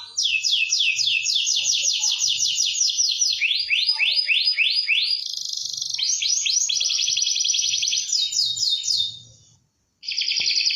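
Domestic canary singing loud, rapid rolls of repeated sweeping notes, switching to a new trill every second or two. The song fades out near the end, and after a brief silence a dense trill starts again.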